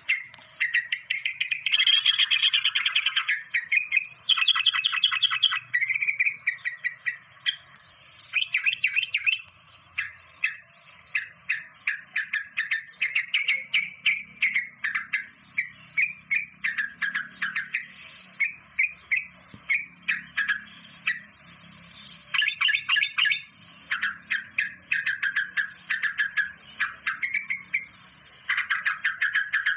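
Birdsong: rapid runs of high, repeated chirps and trills, one burst after another.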